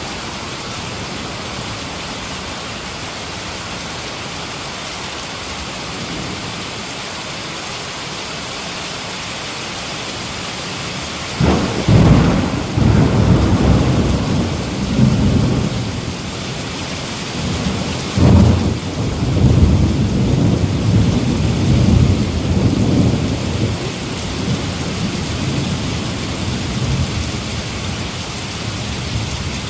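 Heavy rain falling in a steady hiss, with two rolls of thunder: a sudden low rumble about a third of the way in, then a second clap a few seconds later that rolls on and fades, leaving the rain alone near the end.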